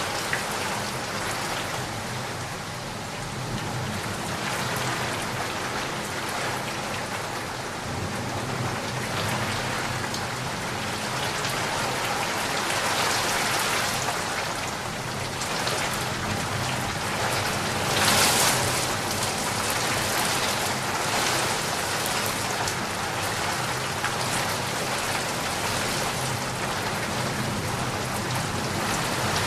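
Steady rain falling, an even dense patter, with a brief heavier swell about two-thirds of the way through.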